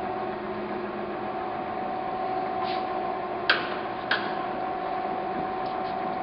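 Victor 2040 engine lathe running, a steady hum with a held whine. Two sharp clicks come a little past the middle, about half a second apart.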